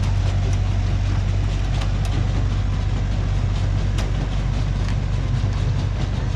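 Miniature park train running: a steady low rumble with scattered sharp clicks.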